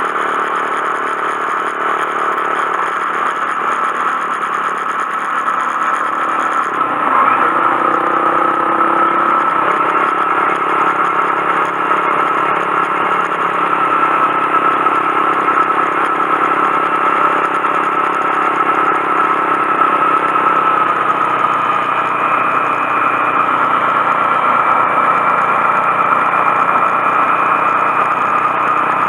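Honda Monkey 125's single-cylinder engine running steadily while the motorcycle is ridden. About seven seconds in the engine note shifts briefly, then runs on a little louder.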